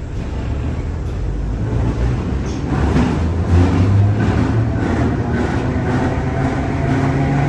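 Narrow-gauge tram-train running on the Rome–Centocelle line: a low rumble of wheels on rail with a steady motor hum, growing louder over the first few seconds and then holding.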